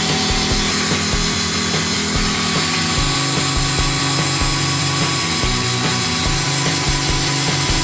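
ZUBR DL 20 A5 drill-driver running steadily under load, as when boring into wood, over background music.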